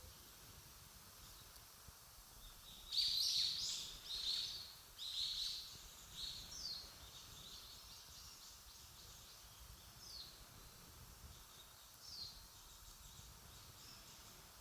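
A bird calling outdoors: a quick run of loud, sharp, high notes about three seconds in, trailing off into a few fainter calls, over faint steady background noise.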